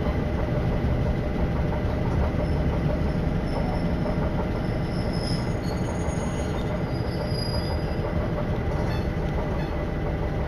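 Aizu Line diesel railcar running, heard from inside the passenger cabin: a steady low rumble of the train moving along the track, with a few faint, brief high squeals about halfway through.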